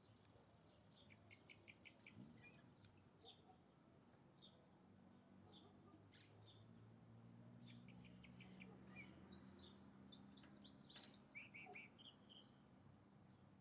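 Faint bird calls: scattered short high chirps, two quick trills of four or five notes, and a busier run of chirping toward the end.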